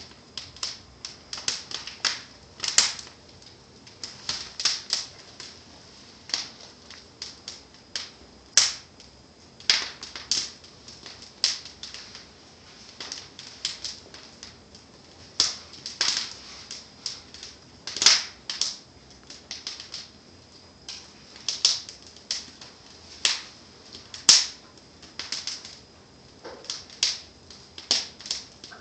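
Wood fire burning in a fireplace, crackling with irregular sharp pops from the logs and embers, several a second, with louder snaps every few seconds over a faint steady hiss.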